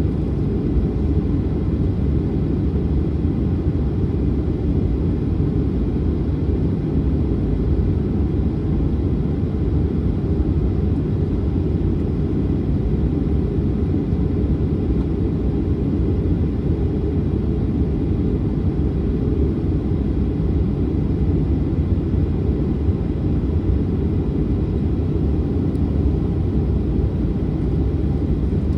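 Boeing 737-900's CFM56 engines and airflow heard as a steady low rumble inside the cabin, even in level with no changes.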